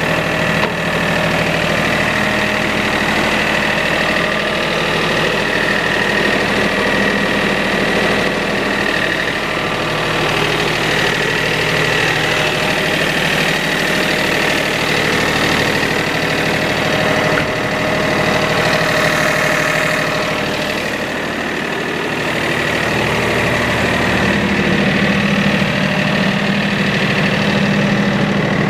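Kioti tractor's diesel engine running steadily at idle, with a brief slight drop in level about three-quarters of the way through.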